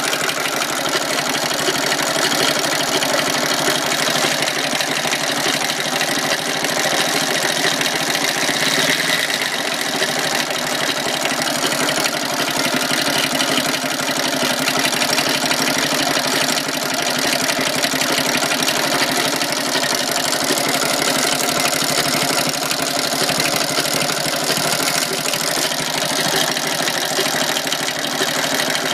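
Honda Little Cub's small single-cylinder four-stroke engine idling warm, with a steady, fast mechanical clatter: an abnormal engine noise whose cause the owner does not know.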